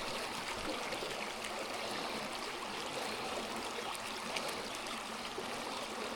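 A small stream running steadily over rocks.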